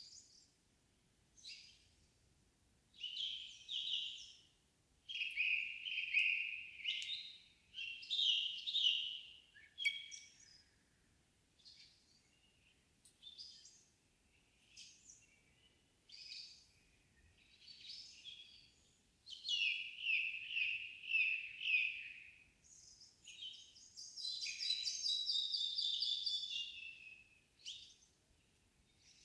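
Songbirds singing at dusk in a still forest with no wind: several birds in short, overlapping phrases separated by brief quiet gaps. Near the end comes a long trill of quickly repeated notes.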